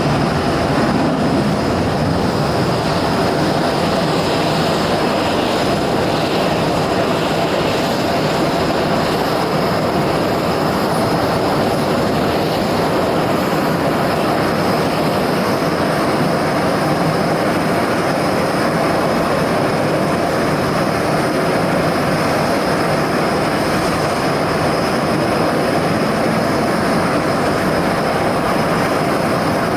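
F-22 Raptor's twin Pratt & Whitney F119 turbofan engines running, a loud steady roar with a steady high whine over it.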